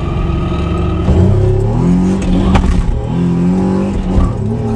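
Nissan VQ30DE-K 3.0-litre V6 in a swapped Mazda FC RX-7 pulling hard under full acceleration, heard from inside the cabin. The engine note climbs in pitch, then drops back about two and a half seconds in and again near the end, as it goes up through the gears.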